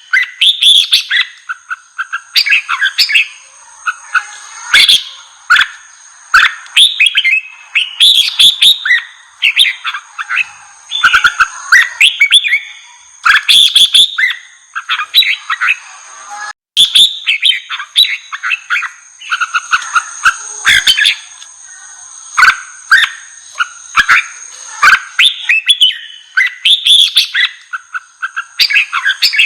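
Red-whiskered bulbul song: loud, rapid runs of chirping phrases following one another with hardly a pause, the heated competition song. A steady high tone runs underneath, and the sound cuts out for a moment about halfway through.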